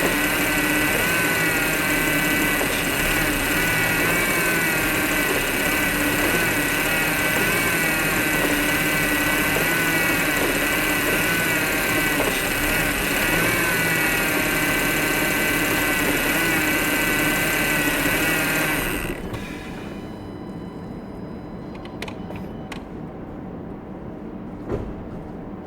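Audi Q5 3.2 V6 engine idling steadily, with wavering whine tones over the running sound; the owner links the sound to a faulty engine mount. About three-quarters of the way through it cuts off suddenly, leaving a faint hum, a few light clicks and a single knock.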